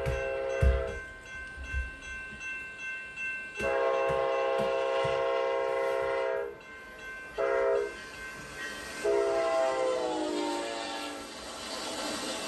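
Amtrak P42DC diesel locomotive's air horn sounding the grade-crossing signal: one blast ends about a second in, then a long, a short and a long blast, the last dropping in pitch as the locomotive passes. Wheels thump over rail joints in the first couple of seconds, under a steady rumble of the passing train.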